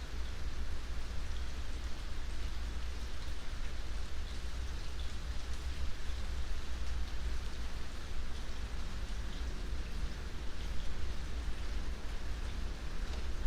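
Steady rain falling: an even hiss with scattered drops ticking, over a constant deep low rumble.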